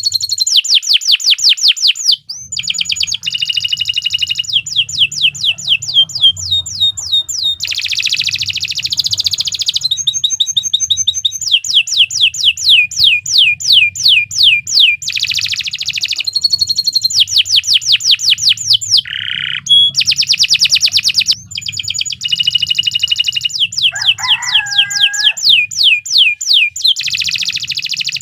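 Domestic canary singing a long, unbroken song: loud runs of quick repeated sweeping notes, each trill changing to a new one every second or two. A faint low hum runs underneath.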